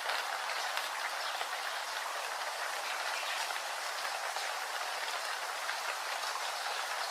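Steady rain falling, an even hiss with scattered patter of drops.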